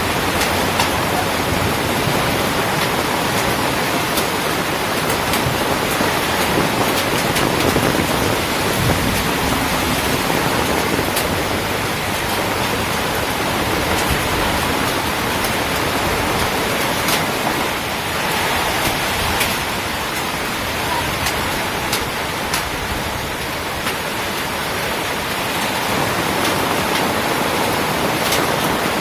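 Heavy rain pouring steadily, a dense even hiss with scattered sharp taps of drops striking close by.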